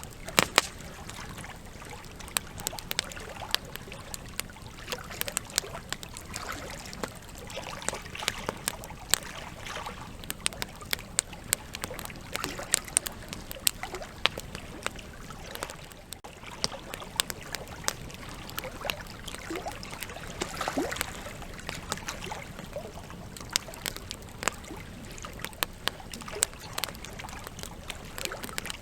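Wood campfire crackling: irregular sharp pops and snaps from the burning logs over a steady hiss.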